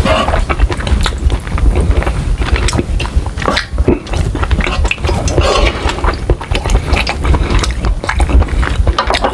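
Close-miked chewing of a mouthful of instant noodles: dense, irregular wet mouth clicks and smacks over a steady low rumble.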